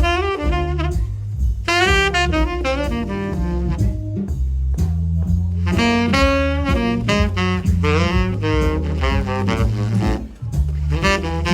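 Tenor saxophone improvising a jazz solo in quick melodic runs with short breaths between phrases, over a backing of walking bass and drums.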